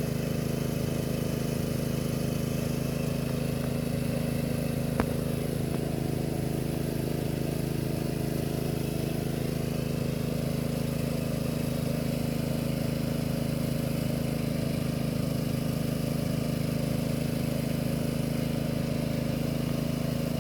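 Steady low mechanical hum of a running motor, unchanging throughout, with a single sharp click about five seconds in.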